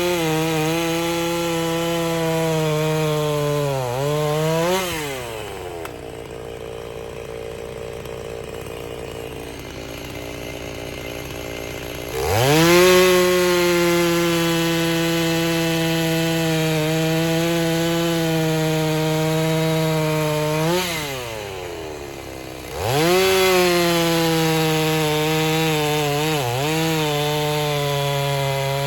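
Compact tractor's diesel engine running at high revs, its pitch sagging and recovering several times as the hydraulics load it while the grapple picks up a log. There is a stretch of lower, quieter running about a third of the way in.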